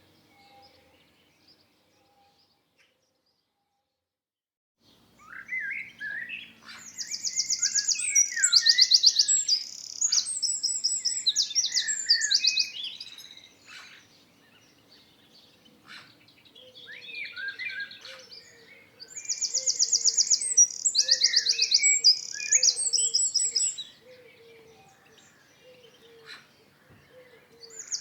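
A songbird sings two long bouts of varied phrases mixed with fast, high trills, after a few nearly silent seconds at the start.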